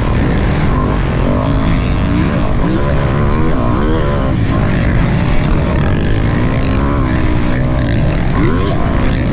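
Motocross bike engines running loud, revving up and down several times, with the pitch rising and falling over a constant low rumble.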